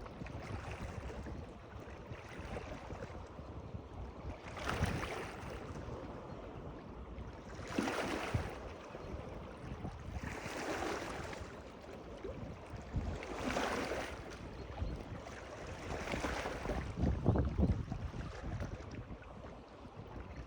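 Water washing and splashing in regular surges about every three seconds, like small waves lapping, over a low rumble of wind on the microphone.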